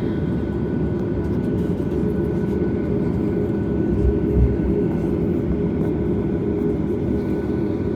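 Cabin noise inside a Boeing 737 MAX on the ground: a steady drone of its CFM LEAP-1B engines and cabin air with a constant low rumble, typical of the jet taxiing, and a low bump about four seconds in.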